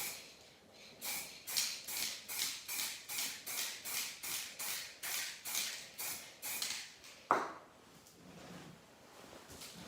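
Aerosol spray paint can fired in a quick run of about fifteen short hissing sprays, two or three a second, then one sharp knock near the end.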